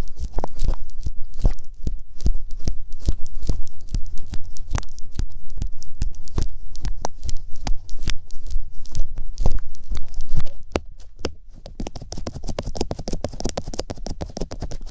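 Rapid, irregular clicks and taps close to the microphone, several a second; about ten seconds in they turn quieter and come thicker and faster.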